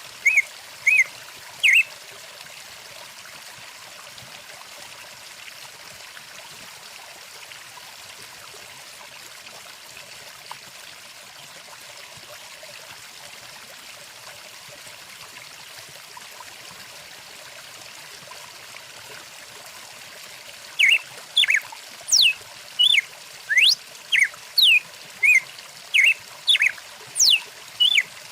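A stream running steadily. A bird calls over it with short, loud chirps and quick sweeping whistles for the first two seconds, then again from about three-quarters of the way through, roughly two calls a second.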